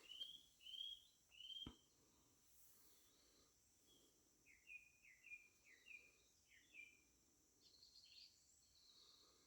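Faint evening birdsong: three clear arched whistled notes in the first second and a half, then a quick run of short chirping notes from about four and a half seconds in, with a few higher notes near the end. A single soft click about a second and a half in.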